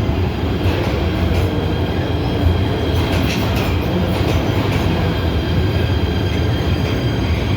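PATH subway train running with a steady low rumble, faint high-pitched tones from the wheels and rails over it.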